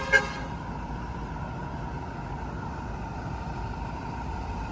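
A motor vehicle running steadily with a low rumble. Right at the start come two short, loud beeps in quick succession.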